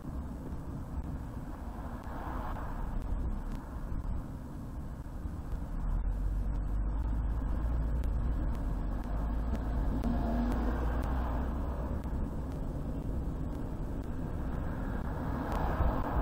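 Car driving on a highway: a steady low rumble of road and engine noise that grows louder about six seconds in, with brief swells of noise a few times.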